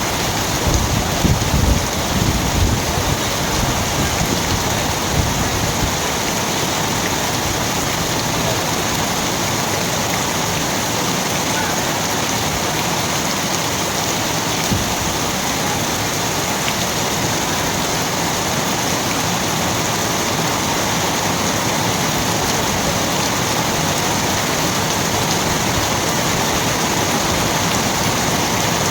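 Steady rain falling, an even hiss, with some low irregular bumps in the first few seconds.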